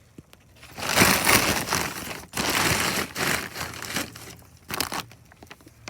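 Plastic tarp crinkling and rustling as it is handled and spread out, in several loud stretches of a second or so each, followed by a few sharp clicks.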